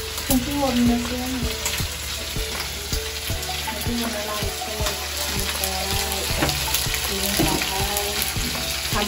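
Pieces of eel sizzling as they fry in a metal kadai, with a metal spatula clicking and scraping against the pan as they are stirred.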